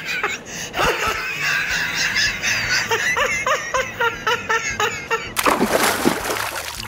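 Laughter, short repeated giggles, then a loud splash about five and a half seconds in as a person slides off a sloping bank into a river.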